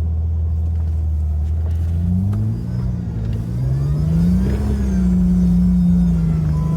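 Jeep engine running steadily, then about two seconds in it revs up as the vehicle accelerates on snow. The pitch climbs, dips briefly, rises to a peak and holds high.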